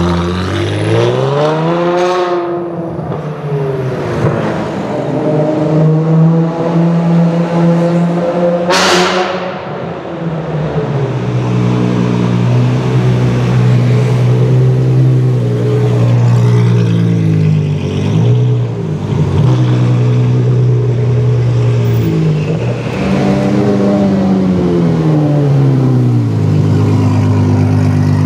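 Ferrari F12's V12 engine with an Armytrix aftermarket exhaust, idling loudly and being revved: its pitch rises and falls about two seconds in and again near the end, with smaller dips in between. A brief sharp noise cuts through about nine seconds in.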